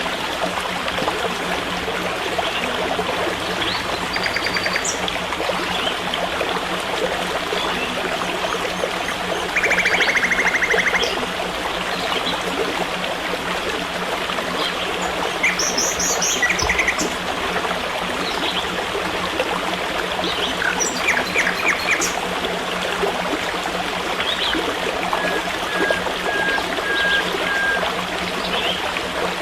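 Forest stream running steadily, with songbirds calling over it in short chirps and rapid trills; the loudest is a quick trill about ten seconds in.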